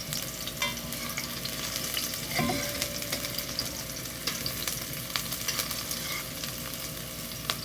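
Chopped onions, pimento peppers and garlic sizzling in hot oil in a pot as they are stirred with a spoon, a steady crackling hiss with a few sharper clicks. This is the browning stage of the curry base, before the curry powder goes in.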